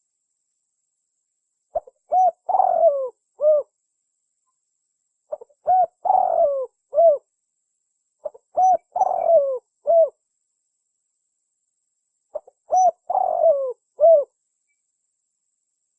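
Spotted dove (tekukur) cooing its song: four phrases about three and a half seconds apart, each a couple of short low coos, a longer falling coo and a final short coo.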